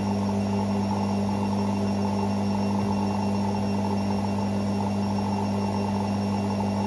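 Hoover Six Sportswear 1300 (AI 130) washing machine running with a steady motor hum and a faint higher whine, unchanging throughout.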